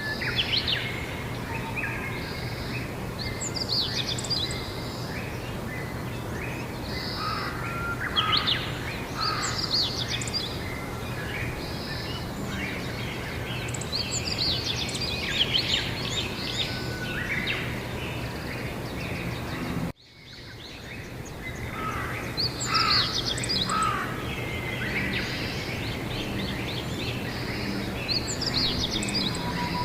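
Songbirds singing over a steady low background hum, one song phrase coming back every five or six seconds. About twenty seconds in, all sound drops out abruptly and fades back up.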